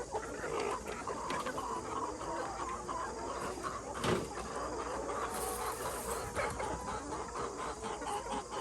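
A flock of chickens clucking and calling over one another, with a single sharp knock about four seconds in.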